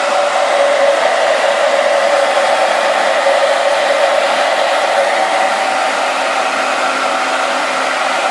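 Hair dryer blowing steadily, a loud rushing hiss with a constant motor whine, drying a rooster's wet feathers.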